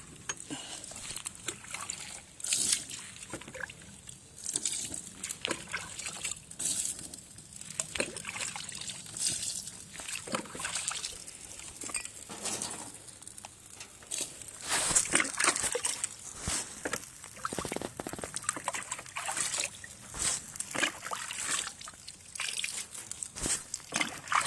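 Burning sawdust fire crackling, with irregular pops and snaps, some in quick clusters.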